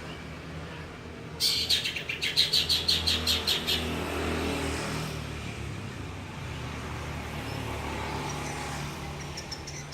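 Long-tailed shrike (cendet) giving a fast run of shrill, lovebird-like chirps, about five a second for some two seconds, and starting another run near the end. A low steady hum runs underneath.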